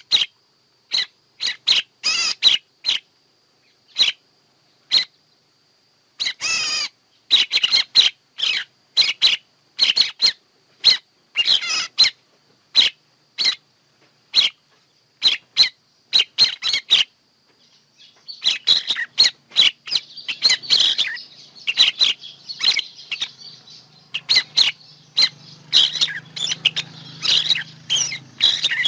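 Songbird chirping: short, sharp, high-pitched notes repeated one after another, sparse at first and coming thick and fast from about two-thirds of the way in. A thin steady high whine runs under the first part, and a low hum comes in under the later chirping.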